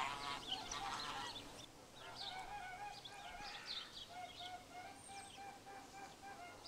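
Several small wild birds calling at once: runs of short, repeated chirping notes with a harsher chattering call in the first second or so.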